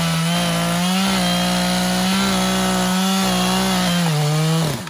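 Chainsaw running at full throttle and cutting into a tree trunk, its pitch holding steady under load. Near the end the pitch sags, then falls away sharply as the throttle is released.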